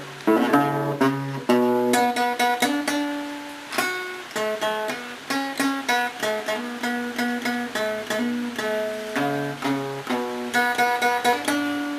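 Acoustic guitar accompaniment, plucked and strummed chords in a steady rhythm, playing an instrumental break between sung verses.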